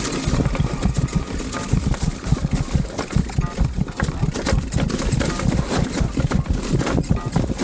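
Downhill mountain bike rolling over a dirt trail, with chain and frame rattling in quick irregular clicks over the bumps and wind buffeting the microphone.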